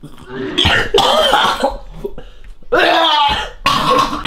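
A person gagging and coughing in three loud, rough fits, retching at the taste of a revolting milkshake.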